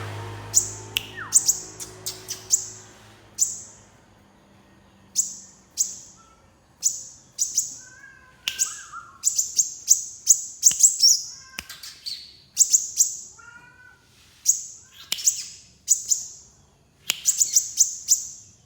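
Small songbird giving sharp, very high chirps, singly and in quick clusters, with a few softer, lower warbling notes in the middle.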